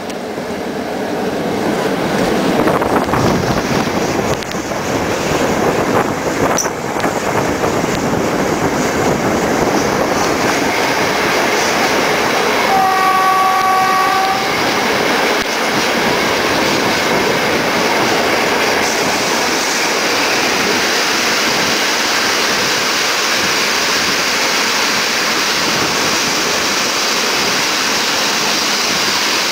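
Steady rushing wheel-and-wind noise of a moving passenger train, heard at the carriage window while another train's coaches pass close on the next track. About halfway through, a train horn sounds once, a single steady chord lasting about a second and a half.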